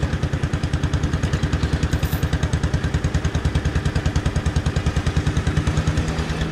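Gilson garden tractor engine working hard with a steady pulsing beat, about nine beats a second, while dragging a car whose rear wheel is locked. About six seconds in the pulsing eases into a smoother, steadier hum.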